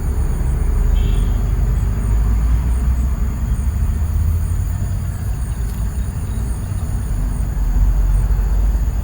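Steady low rumble of wind buffeting an outdoor microphone, with a faint, thin high hum held above it.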